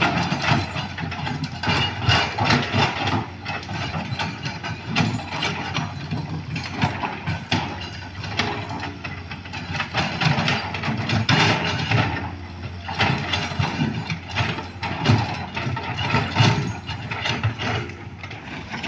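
Heavy machinery working: a diesel engine runs steadily under frequent, irregular metallic clanks and knocks.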